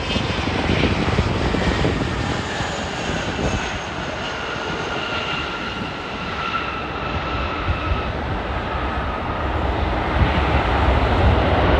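Jet airliner passing on its landing approach: a steady engine rumble with a thin whine that slides slowly down in pitch as it goes by.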